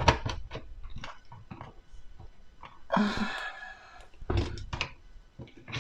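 A Bosch 800 series dishwasher's filter being handled and worked back into its seat in the tub bottom: a run of light clicks and knocks, then a few sharper knocks about four and a half seconds in. A brief voiced grunt is heard about three seconds in.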